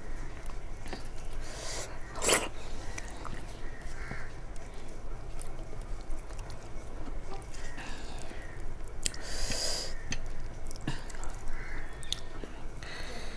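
Close-miked chewing and smacking of soft khichdi, with scattered short clicks and scrapes of fingers gathering rice on a steel plate.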